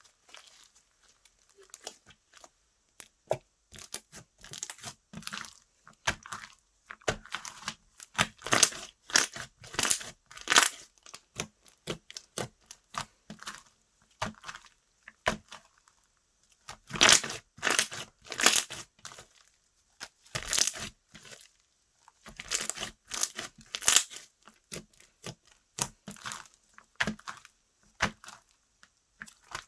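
Hands squishing, stretching and poking slime, giving irregular clusters of sticky crackling and popping sounds with short pauses between handfuls.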